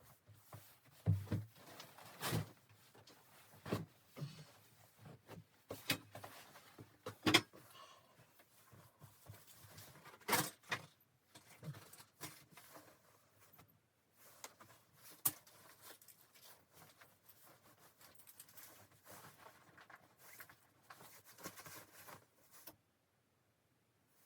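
Irregular knocks and clicks with faint rustling between them, a few louder knocks standing out, like close-up handling of objects; it stops abruptly near the end.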